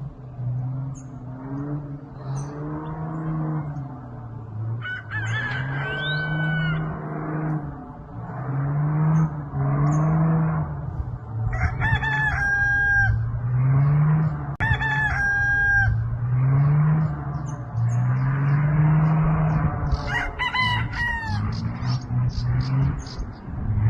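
A rooster crows four times over a continuous low engine drone whose pitch keeps rising and falling, fitting a Cessna 206's piston engine changing power.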